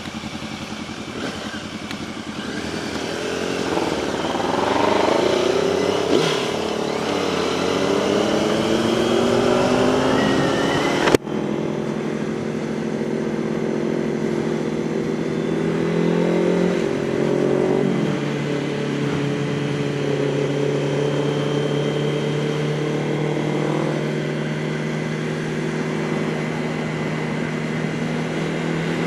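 Motorcycle engine heard while riding, with wind noise. For the first ten seconds or so it accelerates, its pitch rising and dropping through the gears. A sudden click comes at about eleven seconds, and then the engine settles to a steady cruising note.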